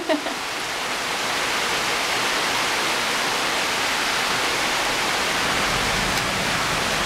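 Heavy tropical rain pouring steadily, a dense even hiss.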